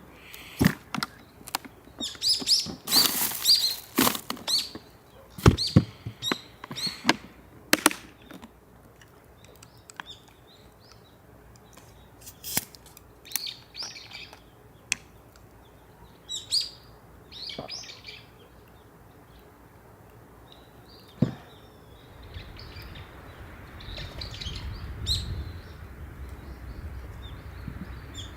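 Small birds chirping in short scattered calls, over a run of sharp knocks and clicks in the first eight seconds or so.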